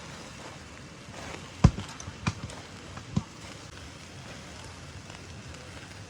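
Three sharp knocks, the first the loudest, over a steady hiss.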